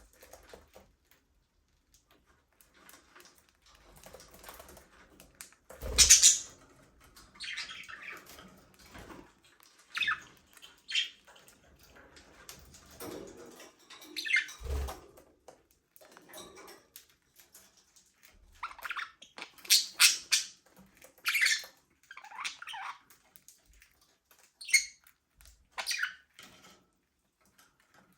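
Budgerigars calling in an aviary: scattered short chirps and squawks, sparse at first and busier in the last third. Twice there is a louder noisy burst with a low thump.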